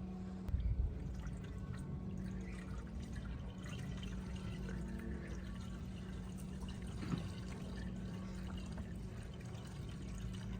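Liquid pouring and trickling over a steady low hum, with small scattered clicks and a couple of brief knocks.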